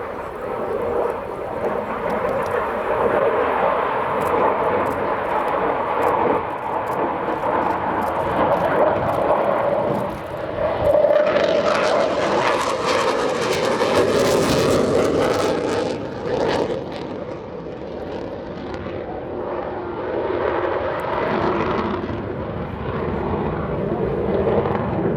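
Panavia Tornado's twin RB199 turbofan jet engines during a display pass, a steady roar that swells to its loudest, with a sharp hiss, about halfway through, then eases away.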